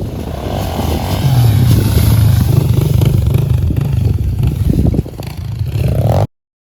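Pit bike engine revving hard under load, growing louder about a second in and easing off about five seconds in; the sound cuts off abruptly about six seconds in.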